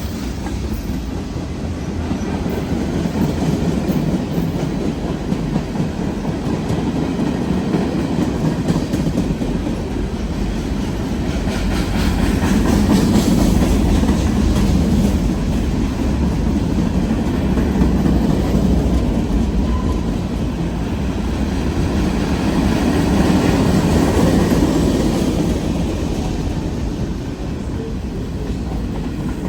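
Freight train cars rolling past, wheels clacking over the rail joints, the rumble swelling and easing every few seconds.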